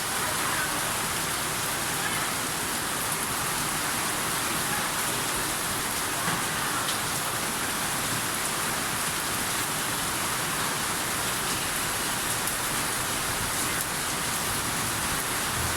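Steady rain falling, a constant even hiss that holds at the same level throughout.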